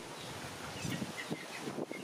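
Faint short bird chirps, a few scattered, over light knocks and rustling from a plastic toy dump truck being pushed across a wooden tabletop.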